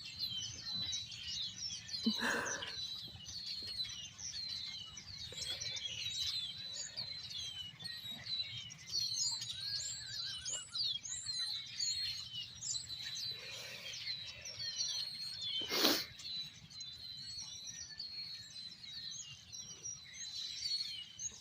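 Many small birds chirping and twittering at once, a dense overlapping chorus of quick high notes. A single sharp knock cuts through about sixteen seconds in.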